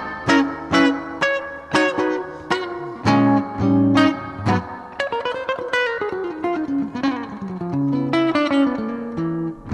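Guitar playing: plucked chords and single notes, with a long falling line of notes about halfway through.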